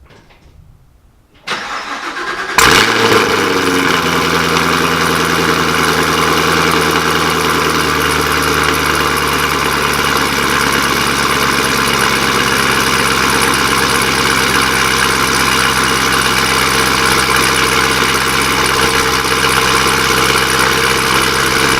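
2018 Chevrolet Camaro ZL1 1LE's supercharged 6.2-litre V8 cold-started: the starter cranks for about a second, the engine catches with a loud flare of revs, then runs at a loud, steady fast idle, its pitch easing down over the first few seconds.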